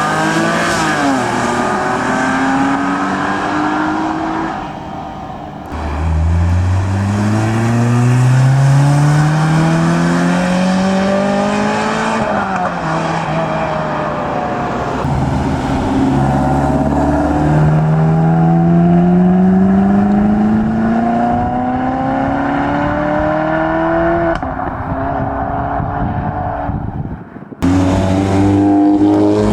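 Modified tuner cars accelerating hard out of a car show, their engines revving up in long rising sweeps with drops in pitch between them, one car after another. The sound breaks off sharply near the end and picks up again with another car.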